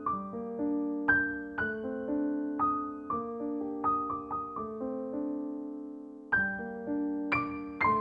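Background piano music: a gentle melody of single struck notes over held chords, with a short pause about six seconds in before the notes resume.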